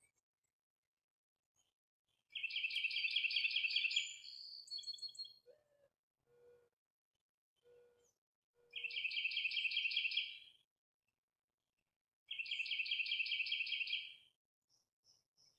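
Bird song: a songbird sings the same rapid trilled phrase three times, each about two seconds long and a few seconds apart. Faint short low notes sound in the gaps between the phrases.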